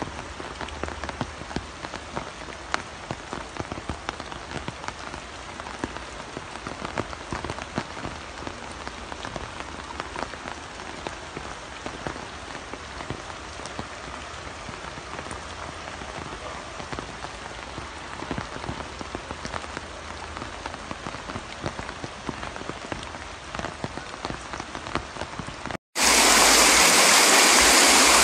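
Steady rain falling on a hard surface, with many separate drop hits. About 26 seconds in it cuts to a much louder, even rush of flowing floodwater.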